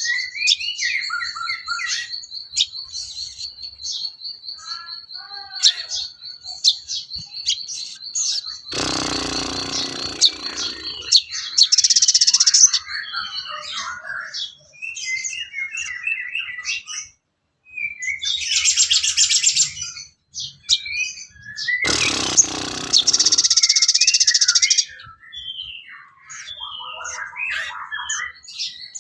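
Recorded sogon bird calls: a busy run of short chirps and whistles, with a steady high whine in the first half. Two loud, harsh, rasping stretches come about nine seconds in and again about twenty-two seconds in.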